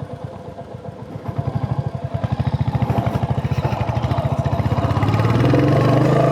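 Royal Enfield Hunter 350's single-cylinder 349 cc engine ticking over with an even thump, then revving up: from about a second and a half in the beats quicken and the note rises and grows louder.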